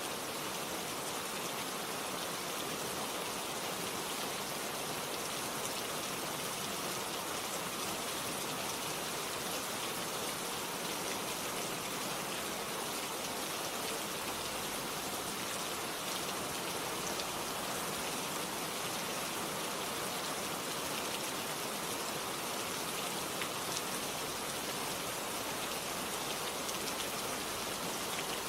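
Steady rainfall, drops pattering on a surface in a constant even hiss, with a few sharper individual drop ticks.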